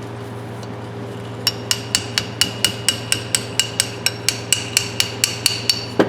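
Rapid light hammer taps on a steel adjustable wrench, about four a second with a bright metallic ring, starting about a second and a half in. The taps are working at a sliding jaw that catches on a spot the restorer thinks is damaged and won't come out.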